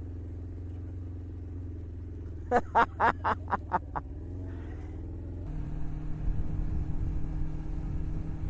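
Motorcycle engine idling steadily. A quick run of about seven short, loud sounds cuts in around two and a half seconds in. About five and a half seconds in, the engine note steps up and grows louder as the bike pulls away.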